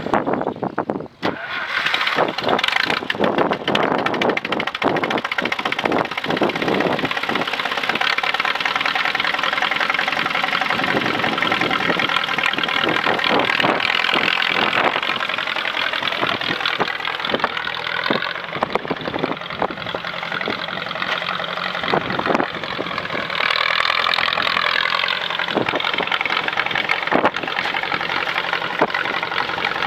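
1961 John Deere 2010 tractor engine starting about a second in, then running, with its pitch rising and falling a few times.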